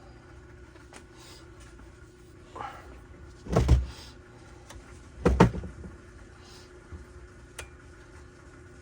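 Two short, loud mechanical bursts about two seconds apart, each with a deep thump, over a faint steady hum.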